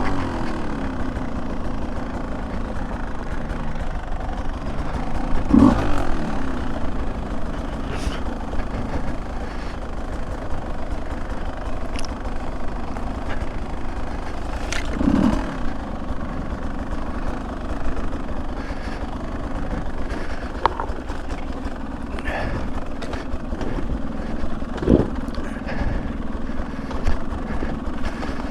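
Beta 200 two-stroke dirt bike engine running on a trail ride, held at low revs with short bursts of throttle about six, fifteen and twenty-five seconds in. Scattered sharp clicks and knocks come through over the engine.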